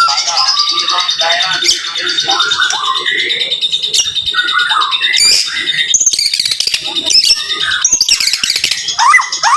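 White-rumped shama (murai batu) singing a dense, fast run of varied phrases: rapid high trills over lower slurred whistles, without a break, with a quick series of rising notes near the end.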